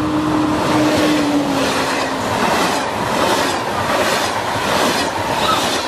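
Double TGV Atlantique high-speed train passing close by. A steady tone sags slightly in pitch over the first two seconds under a loud rushing noise, then comes a rhythmic clatter with beats about half a second apart as the bogies roll past.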